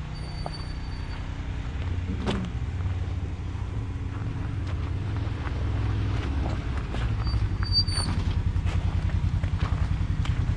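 An engine running steadily, slowly growing louder and more throbbing, with scattered light clicks over it.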